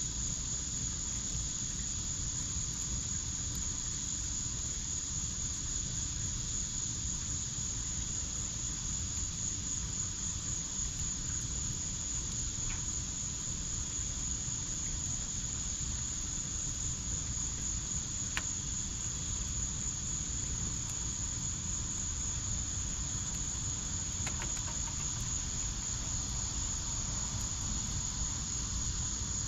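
Steady, continuous high trilling of an insect chorus over a burning backyard fire pit, with a low steady rumble underneath and a few faint crackles from the fire.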